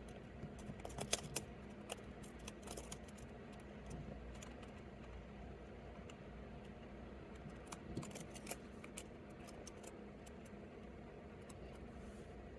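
Faint scratching and clicking in two short clusters, about a second in and again near eight seconds, over a low steady hum: a hopper mouse scrabbling and struggling while held in a pacman frog's jaws.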